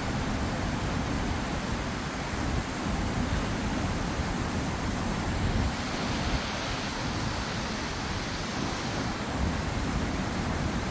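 Steady rushing of the fast-flowing River Tees at Low Force waterfall, with wind buffeting the microphone low down.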